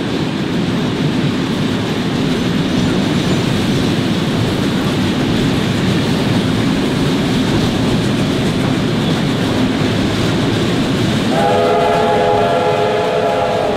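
Train running over track at speed: a steady rumble and rattle of wheels on rails. About eleven seconds in, a train sounds a long, held chord on its horn.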